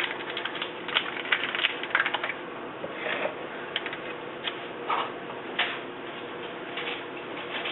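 Irregular light clicks and taps of a measuring spoon against a spice packet and small prep cup as ground black pepper is measured out, with a few sharper taps.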